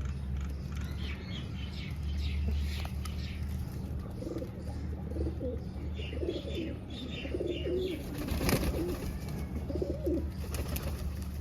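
Pigeons cooing repeatedly in low, warbling calls, with higher chirping calls in between and a brief rustling burst about eight and a half seconds in. A steady low hum runs underneath.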